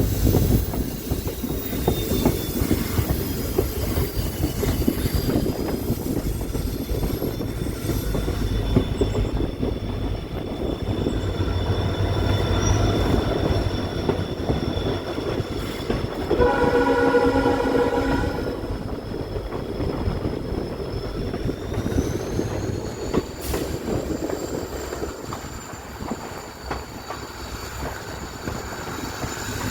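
A train running along the track with a steady rumble, thin high wheel squeal drifting in pitch through much of it. A little past the middle, the train horn sounds once, held for about two seconds.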